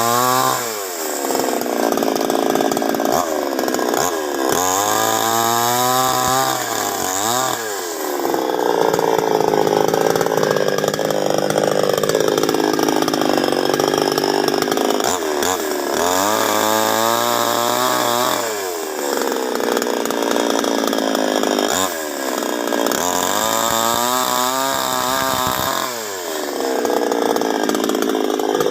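Two-stroke chainsaw cutting a large broken branch. The engine revs up and down several times and sags in pitch through longer stretches as the chain bites into the wood.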